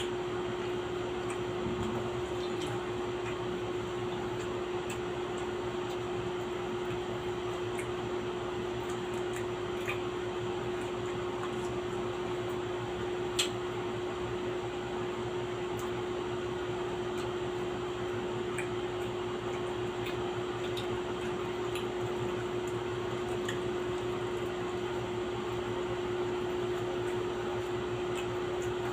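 Steady machine hum with one constant mid-pitched tone, with a few faint clicks and one sharper tick about 13 seconds in.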